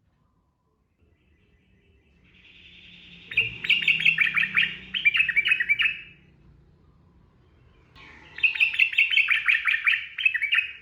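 Sooty-headed bulbul (trucukan) singing two song phrases, the first about two seconds in and the second about eight seconds in. Each opens with a soft buzzy note and breaks into a quick run of loud chirping notes.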